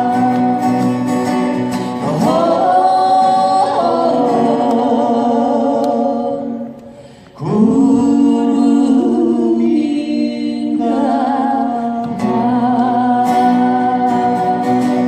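Live band music: a singer holds long, wavering notes over guitar accompaniment. The sound dips briefly about seven seconds in, then the next phrase comes in.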